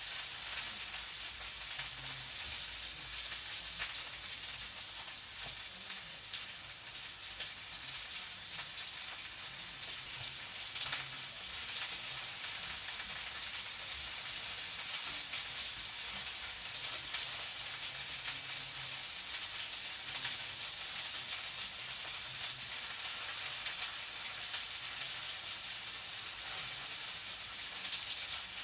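Food frying in a pan: a steady sizzle thick with small crackles and pops.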